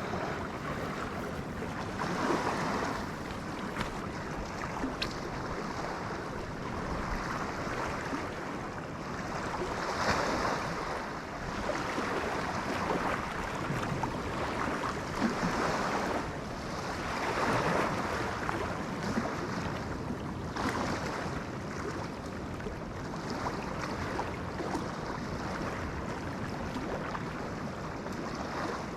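Waves washing against a shore, a steady wash that surges every few seconds.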